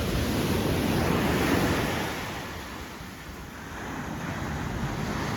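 Sea surf breaking and washing up the beach, swelling, easing about three seconds in, then building again, with wind buffeting the microphone.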